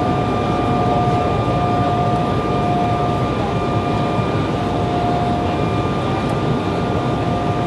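Steady airliner cabin noise heard from a passenger seat: an even roar of engines and airflow with two steady tones running through it.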